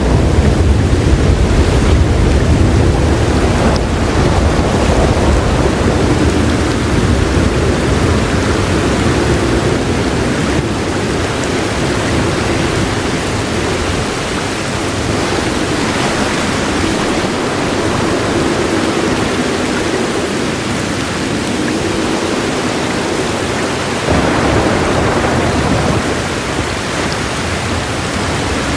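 Heavy rain falling in a steady, dense hiss, with a low roll of thunder in the first several seconds that slowly dies away.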